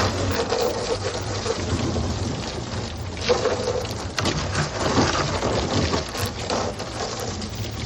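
Brush scrubbing the inside of a plastic 64-gallon recycling bin: a continuous wet scraping hiss with a low rumble and irregular strokes.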